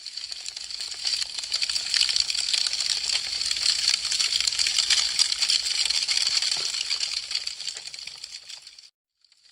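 Burning wood crackling with a dense run of small snaps and pops that builds up, peaks in the middle and fades away, dropping to silence shortly before the end.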